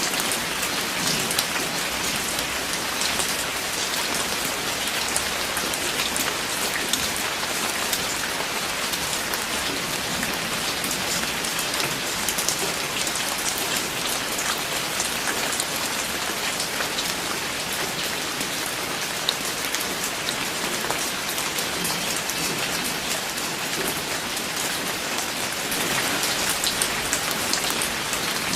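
Steady rain falling on a surface, a dense hiss of drops with many small individual drop clicks standing out.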